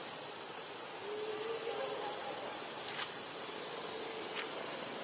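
Steady high-pitched insect drone, with a few faint clicks and a faint wavering tone a second or so in.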